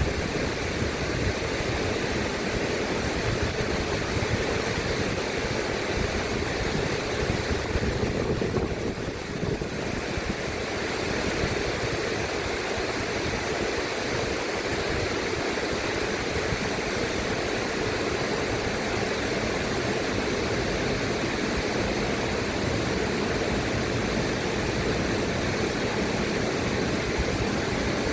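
River water flowing in a steady, even rush, briefly thinner and softer in the treble about nine seconds in.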